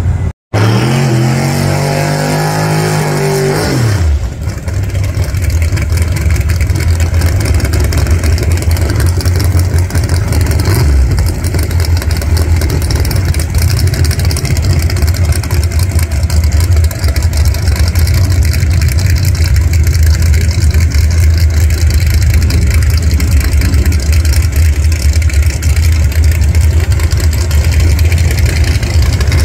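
Drag-prepared Fox-body Mustang's engine idling loudly and steadily at the starting line. For the first few seconds another engine note rises and then falls away before the idle takes over.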